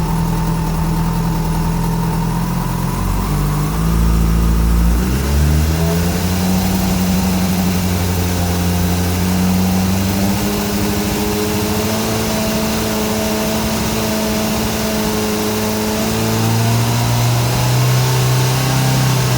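Yamaha FZ6's inline-four engine running cold: idling, then revved up about five seconds in and held at a steady higher speed, dropping back near the end. The owner hears a strange noise from the engine and wonders whether it is valve noise or cam chain noise.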